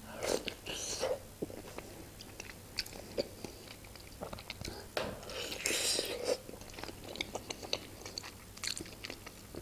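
Close-miked mouth sounds of eating a khinkali (Georgian meat dumpling): a bite into the soft dough near the start, then chewing with small wet mouth clicks. A louder, noisier mouth sound comes about six seconds in.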